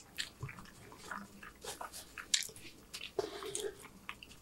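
Close-miked chewing of a mouthful of burger: wet smacks and small irregular clicks of the mouth working the food.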